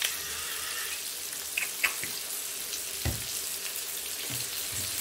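Shrimp, carrots and onions frying in oil in a skillet: a steady sizzling hiss, with a couple of small ticks and a few soft low knocks in the second half.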